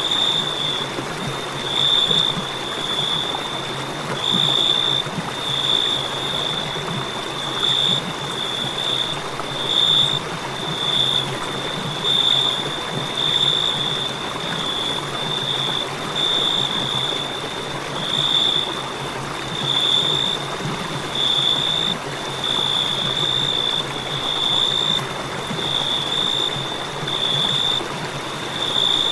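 Crickets chirping: a high, shrill trill repeating in pulses about once a second, over a steady rushing hiss.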